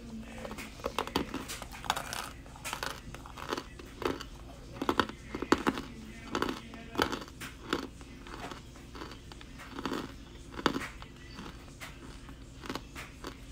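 Chewing a mouthful of Crunchmuncher compressed cornstarch bitten from a brick, with irregular crunches, one or two a second.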